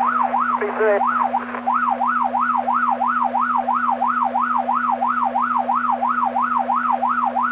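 Police car siren on yelp, quick up-and-down sweeps about three a second, heard over the police radio channel through a patrol car's transmitter that is stuck on, with a steady low hum underneath.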